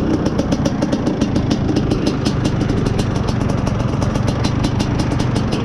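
Izh Planeta Sport's single-cylinder two-stroke engine running steadily while the motorcycle is ridden. A rapid, regular ticking runs over the engine note.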